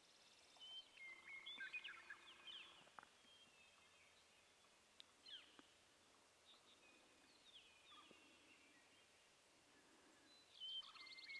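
Faint songbirds singing: a burst of quick trills and chirps in the first few seconds, scattered single chirps after that, then another rapid trill near the end.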